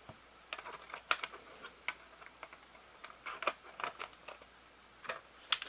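Irregular light clicks and taps of hard plastic being handled, about a dozen over a few seconds, with a sharper pair near the end.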